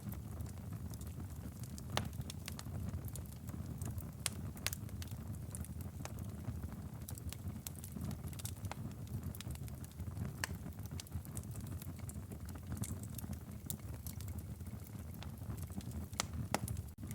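Wood fire burning in a fireplace: a steady low rumble of flames with irregular sharp crackles and pops from the burning logs. There is a brief dropout just before the end.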